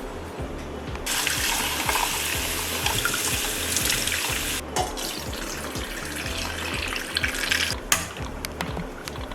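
Water running from a tap into a pot, filling it to boil eggs. It starts suddenly about a second in, breaks off briefly in the middle, then runs again and cuts off near the end.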